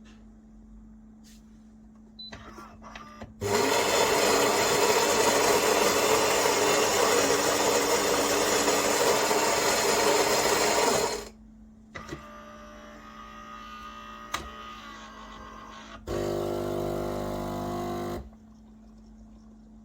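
Philips 5400 Series bean-to-cup espresso machine at work: a loud motor runs steadily for about eight seconds, like its grinder. Quieter whirring and clicks follow, then a loud buzz, like its pump, for about two seconds near the end.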